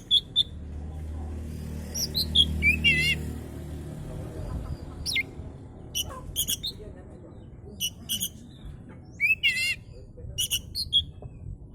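Oriental magpie-robin (kacer) singing: a run of short, high whistled notes broken by two quavering, warbled phrases, about three seconds in and again near nine and a half seconds. A low rumble sits under the song for roughly the first four seconds.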